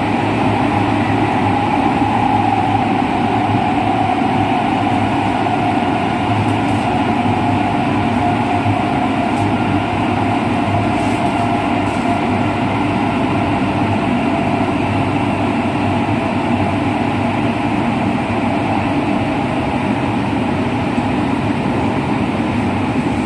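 JR West 207 series electric train running at speed, heard from inside the car: steady rail and traction-motor noise. A motor tone sinks slightly in pitch over the first several seconds, then holds steady. These are the set's traction motors with their original sound.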